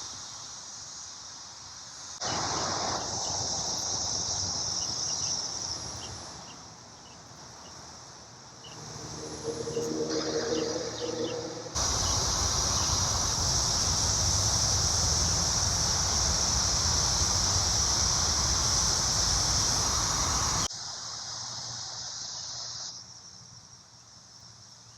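Chorus of Brood X periodical cicadas: a steady, high, droning buzz that jumps in level at several abrupt cuts. In the middle stretch a loud, even rushing noise lies over it for about nine seconds.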